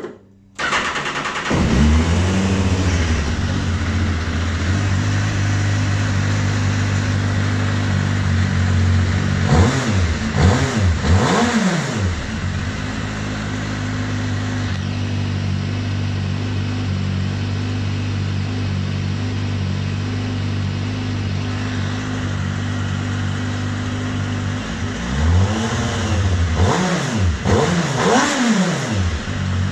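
Small race car's engine catching about a second in and settling into a steady idle, then revved in quick throttle blips twice: once around ten seconds in and again over the last few seconds, the pitch rising and falling with each blip.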